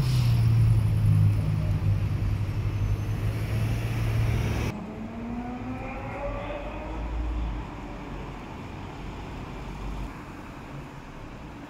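Ferrari 812 Superfast's V12 pulling away with a steady engine note that fades as the car drives off. The sound cuts off sharply about five seconds in, leaving quieter street noise with a faint engine rising in pitch in the distance.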